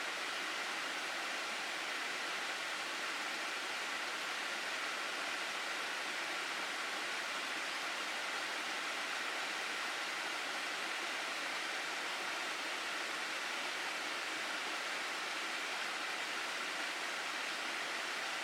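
Water rushing steadily in a stream, an even, unbroken hiss.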